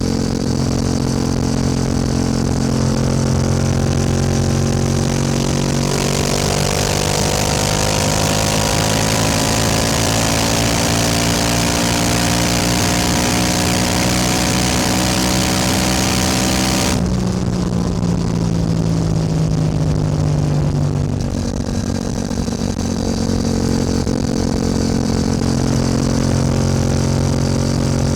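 Yamaha R7's parallel-twin engine running steadily, then held on the throttle from about six seconds in, the revs climbing slowly with a rising rush of air. The throttle shuts suddenly near the end of that climb, the revs fall away over a few seconds, and the engine settles to a steady low note.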